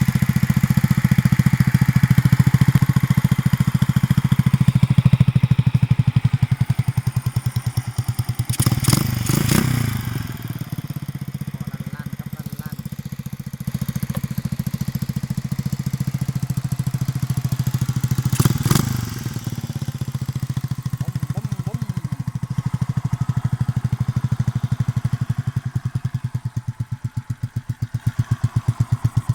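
Honda JX 110 motorcycle engine running at idle with a steady, even pulse, briefly revved twice, about a third and two-thirds of the way through. Near the end it settles into a slower, more uneven idle.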